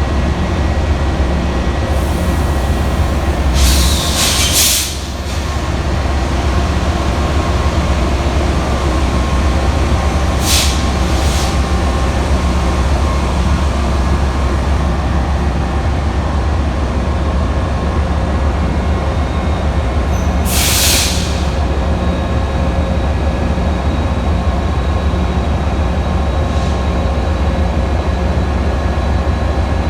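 Train running with a steady low rumble, broken by three short bursts of hiss.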